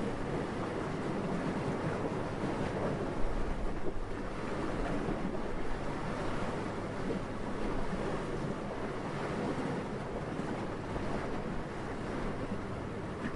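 Wind and sea waves: a steady rush of surf with gusting wind, a little louder for a moment about three to four seconds in.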